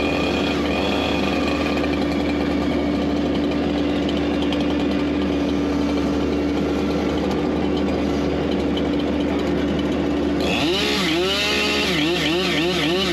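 An engine of the land-clearing machinery runs steadily. From about ten seconds in, a pitched whine joins it, rising and falling over and over in quick arcs.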